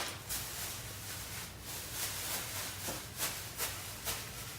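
Grocery bags and packages rustling as they are handled: a string of short, soft rustles and scuffs.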